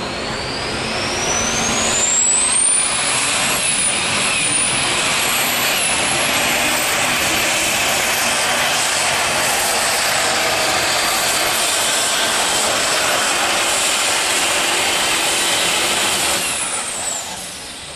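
Twin-turbocharged Super Stock diesel truck engine at full throttle pulling the sled. A high turbo whine climbs steadily over the first six seconds, wavers, then holds high over the engine noise. Near the end the whine falls away and the engine noise drops.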